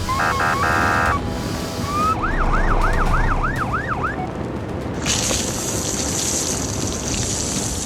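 Cartoon vehicle sound effects: a short honking horn, then a siren wailing up and down about six times, then a steady high hiss from about five seconds in.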